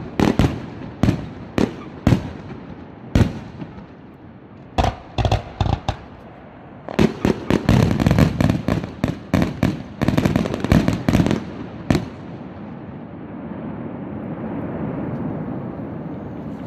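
Fireworks shells bursting in a string of sharp bangs, building to a dense rapid volley that stops suddenly; a steady low rushing noise remains after the bangs end.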